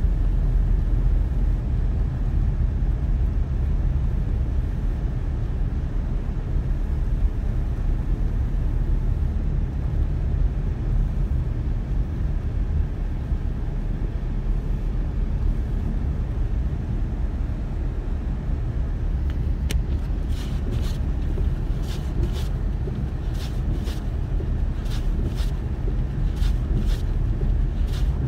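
Snowstorm wind buffeting the microphone as a steady low rumble. Scattered sharp ticks come in during the last third.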